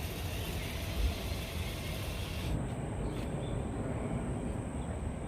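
Steady low outdoor rumble with no distinct events, of the kind PANN files as road traffic. About halfway in, a faint thin high steady tone appears as the hiss above it drops away.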